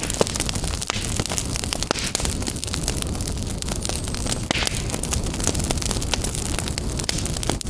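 Wood fire burning in a fireplace, with a steady low rumble of flames and frequent sharp, irregular crackles and pops.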